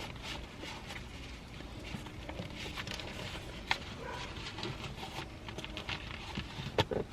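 Light handling noises: faint rustling with scattered small taps and clicks as papers and a document holder are moved about inside a car.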